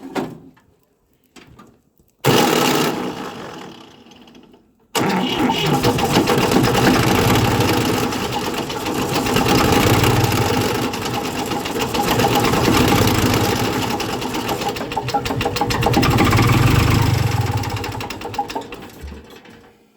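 An engine being cold-started: a short burst about two seconds in that fades out, then from about five seconds in a rapid, continuous running sound that swells and eases several times before dying away near the end.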